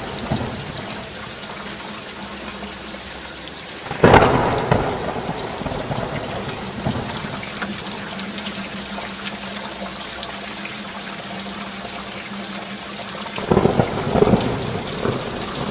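Steady rain with a sudden clap of thunder about four seconds in that fades over a second, and another rumble of thunder near the end.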